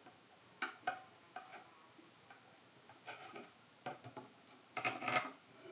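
Faint, irregular small clicks and light taps of hands handling the opened camera body and its hardware, a few in quick clusters.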